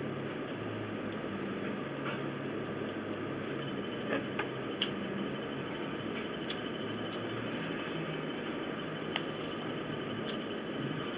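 Eating sounds close to the microphone: chewing with scattered short, sharp crunches and clicks, several between about four and eight seconds in and the loudest near the end, over a steady room hiss.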